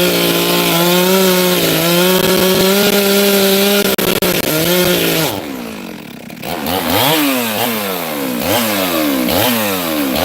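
Chainsaw cutting firewood. The engine runs at a steady high speed, dips briefly about five seconds in, then its pitch swings up and down repeatedly as it works through the wood.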